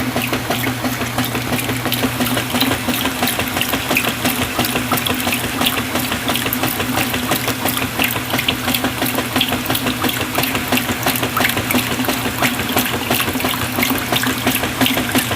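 A 1995 top-loading washing machine running with its lid open: a steady motor hum under the churning and sloshing of water and clothes in the tub.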